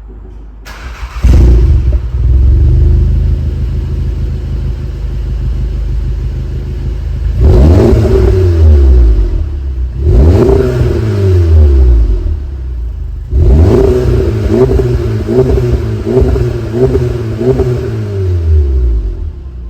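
VW Golf GTI Performance's turbocharged 2.0-litre four-cylinder through a one-off aftermarket exhaust, starting up about a second in and settling to a steady idle. It is then revved twice with long rises and falls, and finally blipped in a quick run of short revs.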